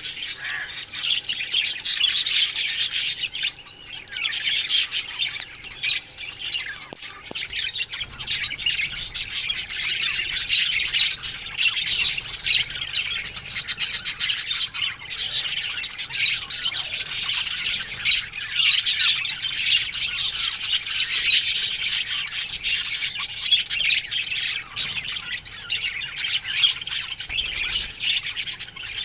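A flock of budgies (budgerigars) chirping, warbling and squawking together in an aviary: a dense, continuous chatter of many overlapping calls.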